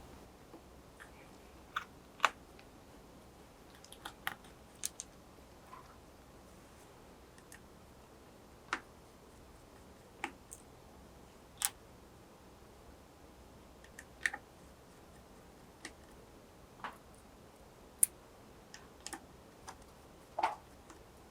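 Scattered small clicks and taps at irregular intervals, from the parts of an LG Gram laptop's display and the tools being handled as the LCD cable is removed, with quiet room tone between them.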